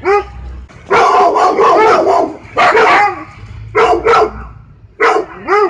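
Dog barking loudly: a single bark at the start, a fast run of barks about a second in, then short groups of two or three barks every second or so.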